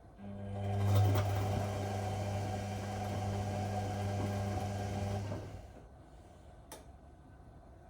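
Whirlpool Indiana 1400 washing machine turning its drum during the wash: a steady motor hum with a rush of tumbling laundry for about five seconds, then it stops. A single sharp click follows about a second later.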